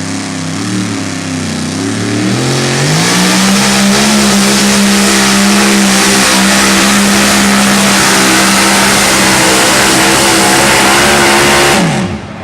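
Super modified two-wheel-drive pulling truck's engine at full throttle on a pull: the revs climb over a second or two, hold at a steady high pitch, then drop sharply near the end as the throttle is let off.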